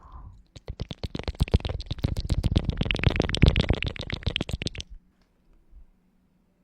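Close-miked ASMR clicking and scratching: a dense, fast run of crackly clicks lasting about four seconds, then it stops suddenly.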